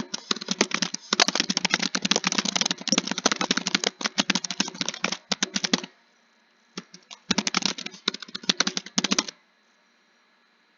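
Computer keyboard typing: fast runs of key clicks, stopping for about a second past the middle, then a shorter burst before it falls quiet.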